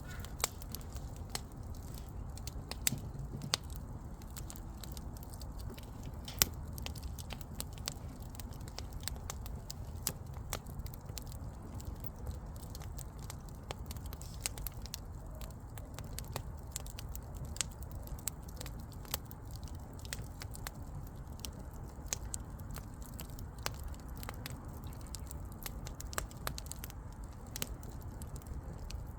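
Wood fire crackling: irregular sharp pops and snaps of burning firewood over a steady low rumble of the flames, with one louder pop about six and a half seconds in.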